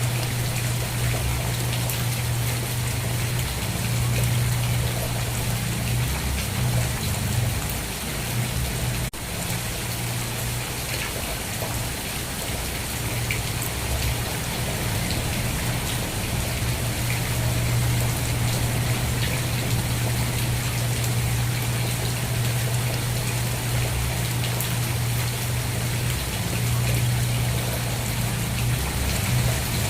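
Steady rain: an even hiss of falling drops, with a constant low rumble underneath and a brief dip about nine seconds in.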